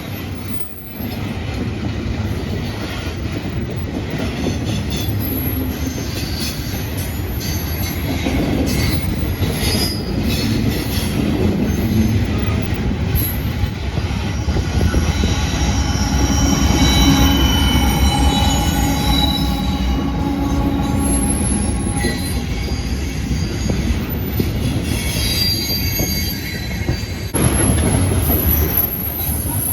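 Train rolling past with its wheels squealing against the rails over the steady low rumble of the cars. The squeal rises into several high tones through the middle stretch.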